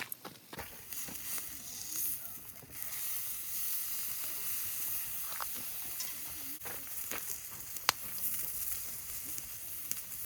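Beef steak sizzling on an iron griddle over a campfire: a steady high hiss that starts about half a second in, with scattered sharp pops.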